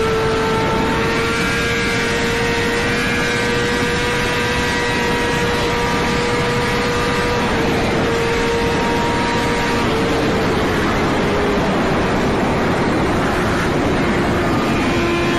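Kawasaki Ninja superbike engine held at high revs at speed, a steady pitched drone over heavy rushing wind noise. The pitch eases down slightly in the last few seconds.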